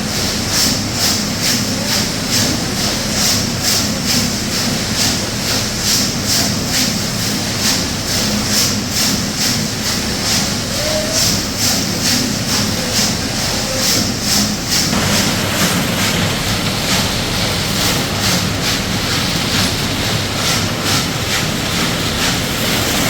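Workshop machinery running continuously with a regular beat of about two to three strokes a second over a steady hiss; the low running note shifts about two-thirds of the way through.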